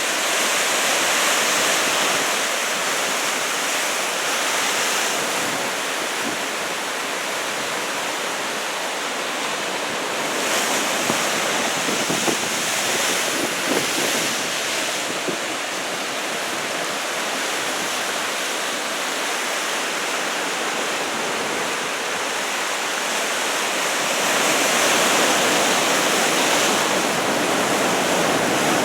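Large typhoon swell, about two metres, breaking and washing in a continuous surf noise, with wind on the microphone. The surf swells louder near the end.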